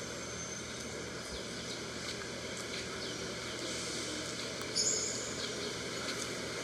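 Steady outdoor background noise with faint bird chirps, and a brighter, slightly louder chirp about five seconds in.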